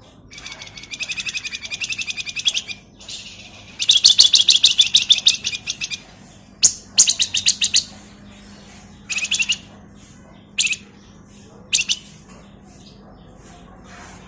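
A flamboyan (wergan Jawa) songbird singing in bursts of rapid, high trilling chatter, the loudest burst about four seconds in, then shorter bursts and single sharp notes.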